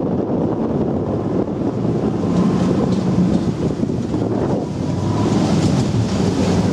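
Type 94 amphibious mine-laying vehicle's engine running steadily while under way on the water, with wind buffeting the microphone and water rushing past.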